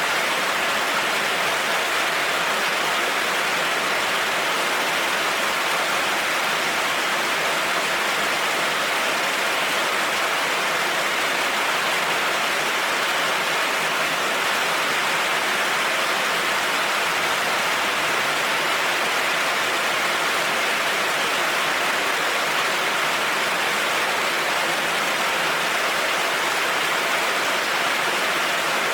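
Heavy rain falling steadily: an even, unbroken hiss of water, with no thunder.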